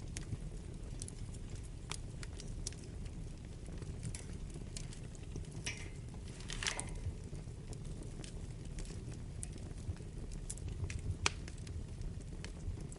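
Wood fire burning in a fireplace: a steady low rumble of flames with scattered crackles and pops. A brief hiss comes about halfway through, and a sharp pop, the loudest moment, comes near the end.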